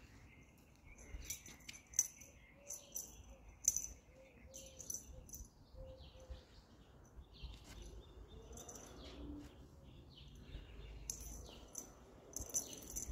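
Small birds chirping repeatedly, faint over a low steady background rumble.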